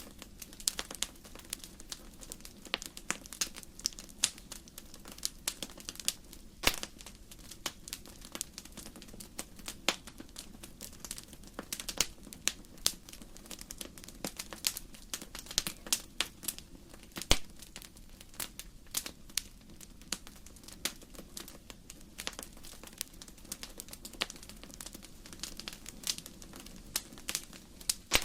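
Wood fire in a fireplace crackling: irregular sharp pops and snaps from the burning logs, a few louder than the rest, over a steady low rush of the flames.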